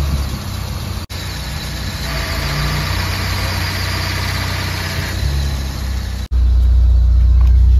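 Honda Accord Maestro's four-cylinder engine idling steadily, a car with a hard-starting and stalling fault. The sound cuts out briefly about a second in and again near the end, after which the idle is louder.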